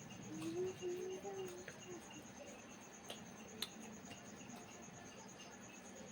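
An insect trills steadily in the background, a high rapid pulsing that does not stop. There is a brief low hum near the start and a few sharp clicks in the middle.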